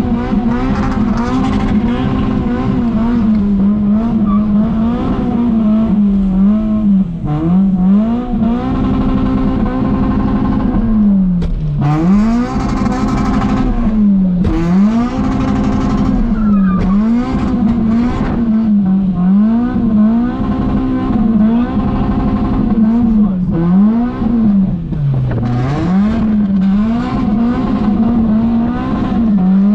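Toyota Altezza's 3S-GE four-cylinder engine revving hard while drifting, held at high revs for long stretches and dropping and climbing back again every second or two as the throttle is worked.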